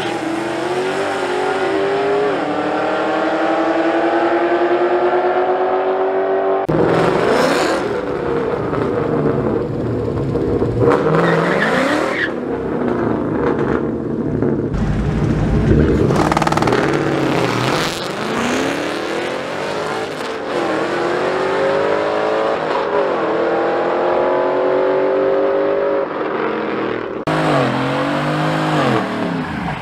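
Car engines accelerating hard at a drag strip: their pitch climbs for several seconds, drops back abruptly at each gear change, then climbs again, over and over.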